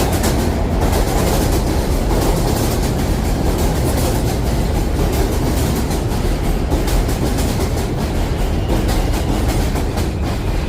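New York City subway train running along the rails at the station, a loud steady rumble with wheels clattering over the rail joints; a faint high wheel squeal creeps in near the end.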